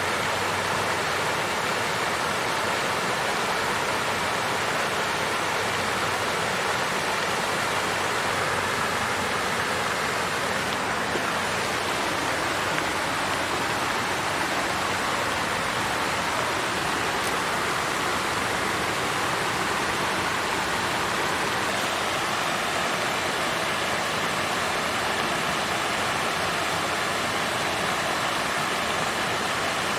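Water fountain flowing and splashing steadily in an even rush of water noise.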